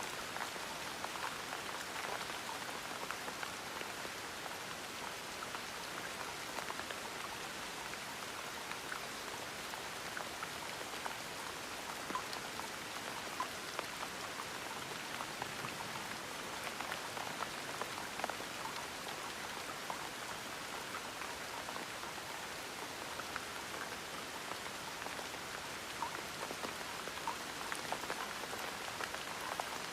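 Steady gentle rain, an even hiss with many small drops pattering on a surface.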